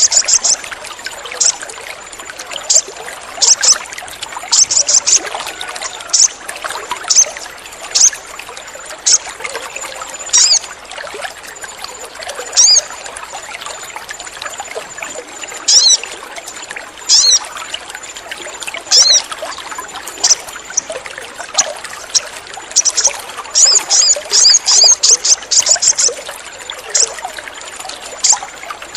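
Sogon bird calling in short, high, thin chirps, sometimes single and sometimes in quick rattling runs, with a thin steady high whistle under the first part. Water trickles steadily underneath.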